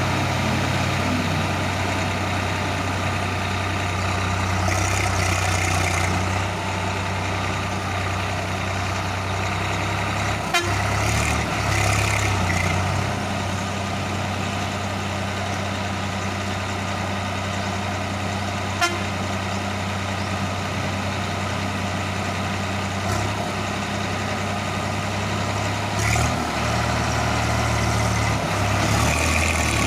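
Heavy diesel engines of a tractor and a lorry running steadily under load while the tractor pulls the lorry out of mud. The engine note shifts about a third of the way in and again near the end, with two sharp clicks in between.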